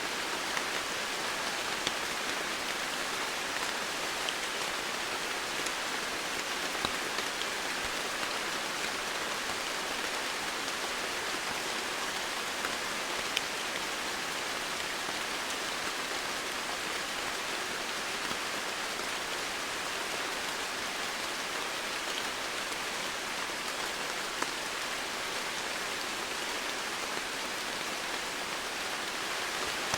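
Steady, continuous rain falling on a surface, an even hiss with scattered faint drop ticks.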